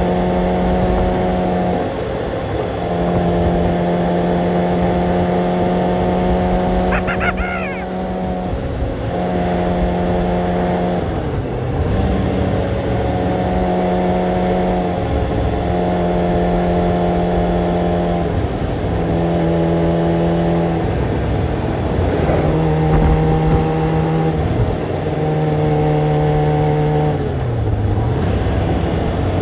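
Motorcycle engine running under way, holding a steady pitch for a few seconds at a time with brief dips in revs between, about eight times. There is a short high chirp about seven seconds in.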